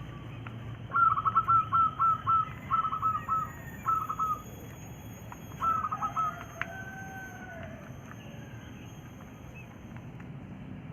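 Quail calling: rapid runs of short, loud chirping notes in several bursts, about a second in to four and a half seconds, then one more short burst around six seconds.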